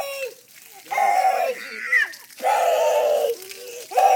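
High, loud voice shrieking in three or four short calls, each under a second, with brief pauses between.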